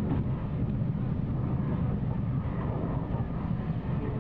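Steady low running noise of a train travelling along the track, heard from the front of the locomotive, with the recording played backwards.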